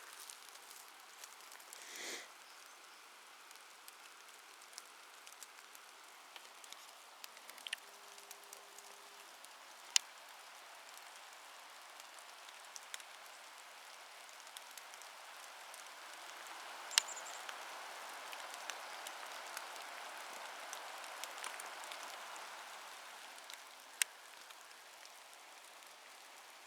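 Steady rain falling in a forest, with scattered sharp ticks of drops striking close by; the hiss swells for several seconds in the second half.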